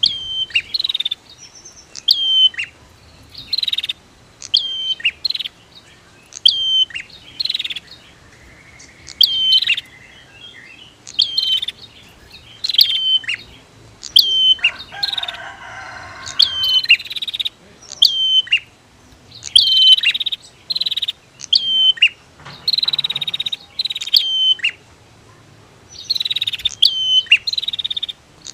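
Prinias (prenjak) calling: short, sharp, high chirps repeated about every second or so, with a lower, rattling chatter about halfway through.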